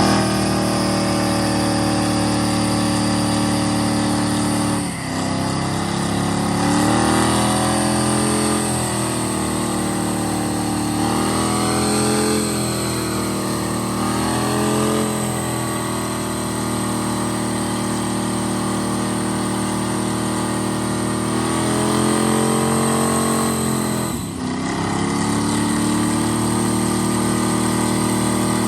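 A truck engine running hard at sustained high revs, its pitch swelling and sagging several times. It dips briefly about five seconds in and again near the end, under a steady high whine.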